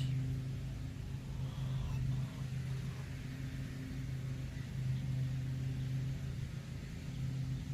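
A steady low hum over a faint rumble.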